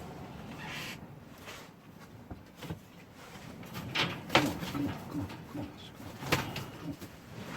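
Pigeons cooing in a loft amid knocks and clatters of birds being handled, with a few sharp knocks, the loudest about four and a half seconds in.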